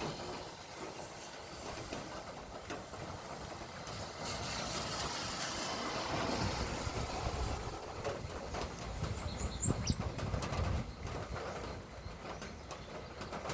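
Outdoor ambience with a vehicle passing on the road, swelling in the middle and fading, and a few short bird chirps a little later.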